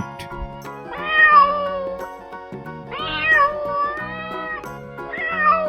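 Domestic cat meowing three times, each a drawn-out meow, over background music.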